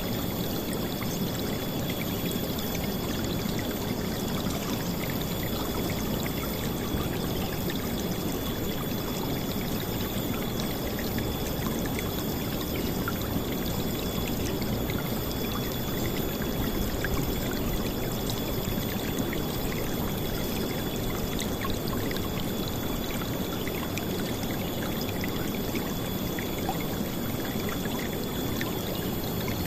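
River water flowing and splashing over stones, a steady, loud rushing with fine bubbling and no letup.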